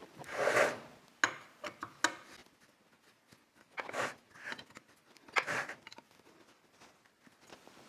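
Workshop handling noises as parts and tools are moved around: a few short rubbing swishes and several sharp clicks and ticks.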